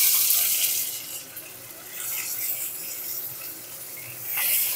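Chopped tomatoes sizzling in hot mustard oil in a karai. The sizzle is loudest at first, dies down after about a second, and swells again near the end.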